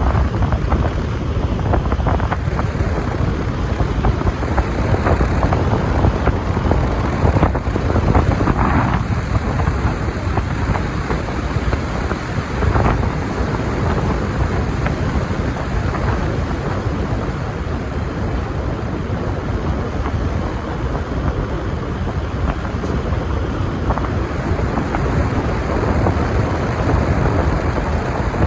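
Wind buffeting the microphone: a loud, rough, low rumble that swells and eases a little but never stops.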